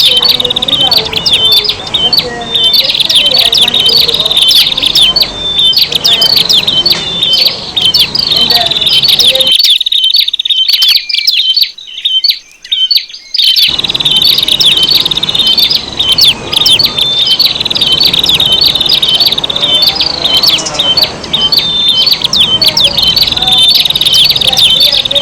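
Prinias (prenjak) calling in a loud, dense lure recording: a continuous stream of rapid, high, sharp chirps and trills, overlapping calls of several birds. For about four seconds in the middle the chirping thins and the background drops away, then the full chorus resumes.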